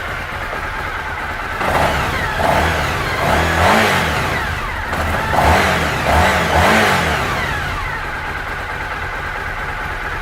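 2003 Suzuki SV1000S's 90-degree V-twin idling, then revved in a series of short blips between about two and seven seconds in, before settling back to a steady idle.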